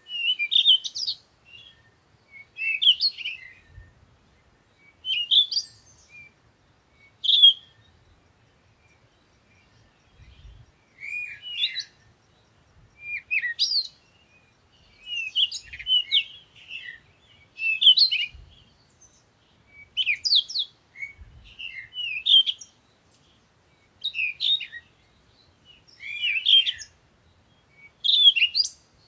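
Bird song: short phrases of quick, high chirps, one every second or two, with a pause of a few seconds about a third of the way in.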